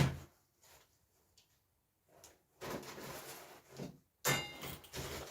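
Heater-kit parts being handled and set down: a sharp knock at the start, then rustling, then a metallic clink with a brief ring about four seconds in.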